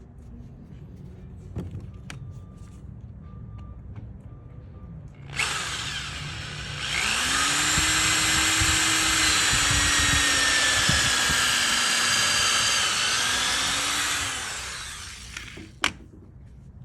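Power drill boring into wood: it starts about five seconds in, speeds up to a steady run with a whine that wavers in pitch, and winds down near the end, followed by a single sharp knock. Light handling clicks come before it.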